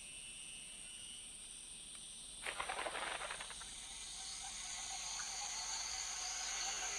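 Tropical forest ambience: a steady high insect drone, with a burst of rapid rattling clicks about two and a half seconds in that lasts about a second.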